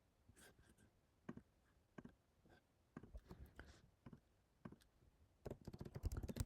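Faint, scattered single clicks of a computer mouse or keys, then rapid typing on a computer keyboard starting in the last second.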